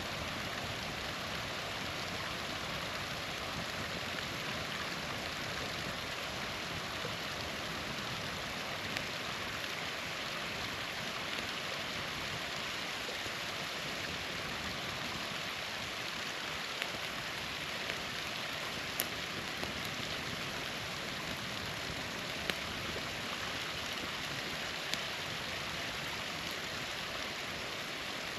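Small waterfall's water rushing steadily, with a wood campfire giving a few sharp single pops and crackles scattered through it.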